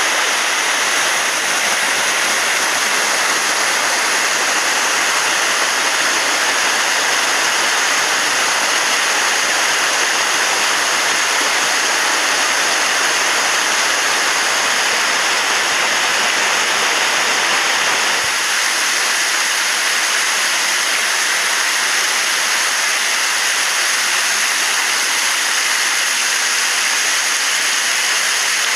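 Waterfall pouring steadily: a constant loud rush of falling water. The deeper part of the rush drops away about two-thirds of the way through.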